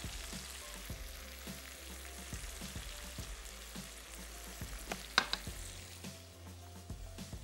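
Goat meat with onion, ginger, garlic and freshly added spices sizzling steadily in oil in a wok, at the stage where the meat is being seared in the masala. A single sharp clink about five seconds in.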